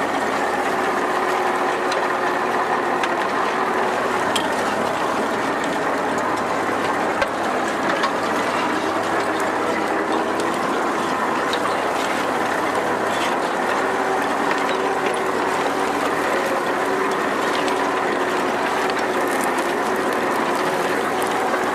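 T-40AM tractor's air-cooled diesel running steadily, with a dense, even mechanical clatter.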